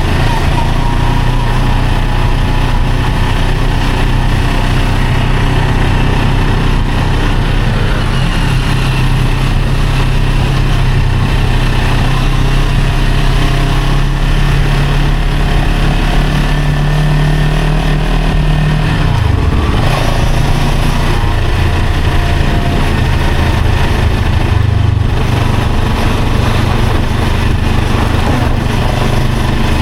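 Small motorcycle engine running steadily while riding in traffic, with a rushing noise over it. About two-thirds of the way through, the engine note climbs a little and then drops sharply before settling again.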